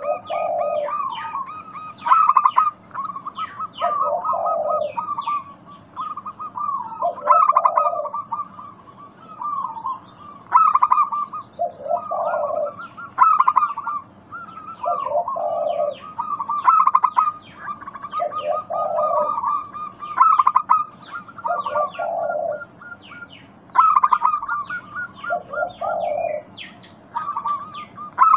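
Zebra doves (perkutut) calling: a low cooing phrase repeated about every three seconds, over near-continuous rapid, higher trilling chirps.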